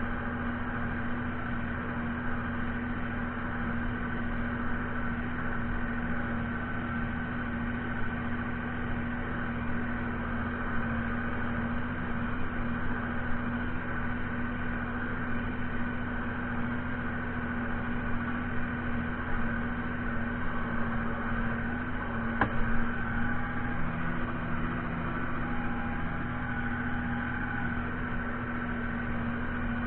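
Fiatagri 130-90 tractor's diesel engine running at a steady speed, a constant drone that does not rise or fall. A single sharp click about three-quarters of the way through.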